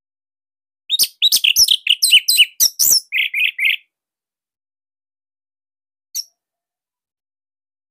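Orange-headed thrush (anis merah) singing: a fast burst of varied high chirps and whistles starting about a second in, ending in a few lower repeated notes. After a pause comes one short note near the end.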